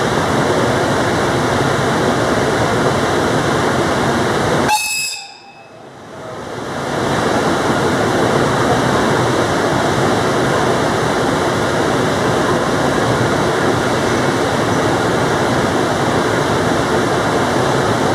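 Steady loud rushing noise of a train standing at a station platform. About five seconds in there is a brief high tone, then the sound drops away abruptly and swells back over a second or two.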